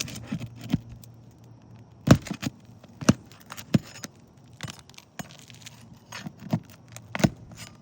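Hand tool knocking and clinking against asphalt roof shingles and nails as a shingle is worked loose: irregular sharp knocks, the loudest about two and three seconds in.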